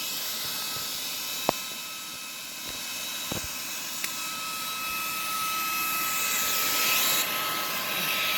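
Cooling fan of a ToAuto A3 PCP high-pressure air compressor running steadily after the compressor has cut out at full pressure, with a steady whine over the rush of air and a few light clicks. About six seconds in a louder high hiss swells and cuts off suddenly.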